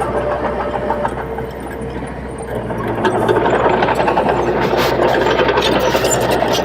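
Komatsu D21P small bulldozer's diesel engine running at work, with rattling clicks of the machine. It dips briefly, then grows louder about three seconds in.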